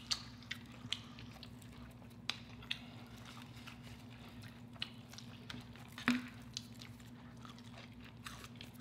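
Close-up eating sounds: biting and chewing battered fried seafood, with scattered soft crunches and wet mouth clicks over a faint steady low hum.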